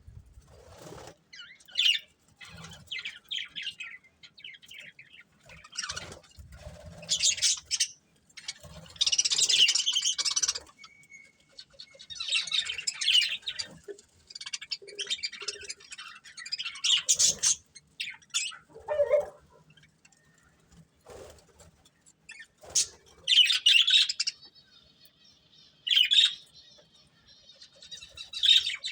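Budgerigars chirping and warbling in irregular bouts of high twittering, broken by short pauses and a few clicks.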